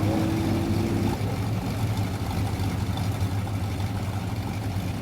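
Vintage drag car engine running at a steady idle, a low even drone. A higher steady engine tone fades out about a second in.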